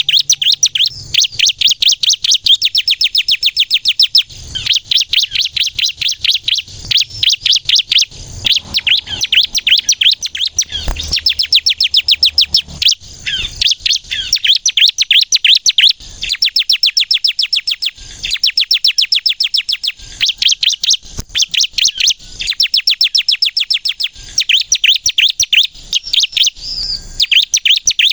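Bar-winged prinia (ciblek) singing energetically, in long runs of rapid, sharp, high repeated notes, many per second, broken by short pauses.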